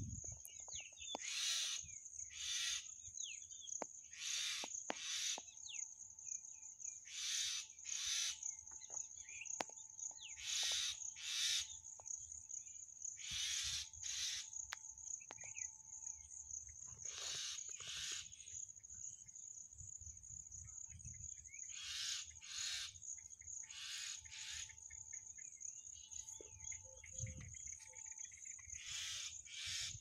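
Birds calling from a tree: repeated short harsh calls, often in pairs, mixed with brief chirps, over a steady high-pitched insect drone.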